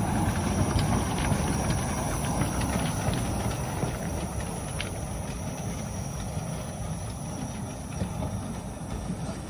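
Narrow-gauge steam train on the move: a steady low rumble with scattered light clicks that eases off slightly toward the end.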